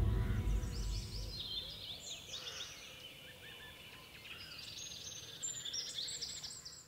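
The tail of the background music fades out in the first second or so. Then small birds chirp and twitter faintly over a low hiss, with the chirps thickening near the end.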